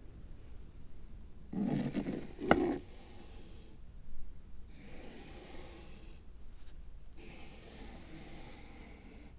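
Hands working on a miniature diorama: rubbing and scraping of small materials, with one sharp click about two and a half seconds in and a shorter scrape a little later.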